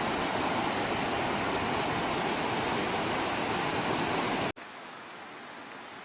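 Mountain valley stream rushing hard, swollen a few days after a typhoon: a loud, steady rush of water that cuts off abruptly about four and a half seconds in, followed by a quieter, thinner hiss.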